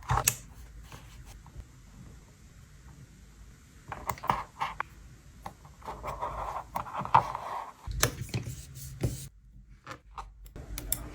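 Paper merchandise cards and their plastic sleeves being handled and slid into storage: scattered taps and clicks with scraping and rustling, including a longer rustle about six seconds in.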